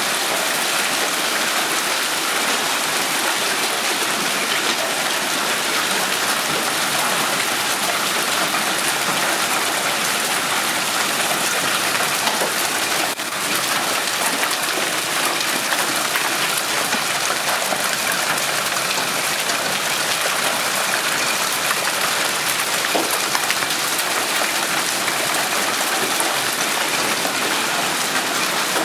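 Hailstorm: hail and rain pelting down on surfaces in a dense, steady patter of countless small impacts.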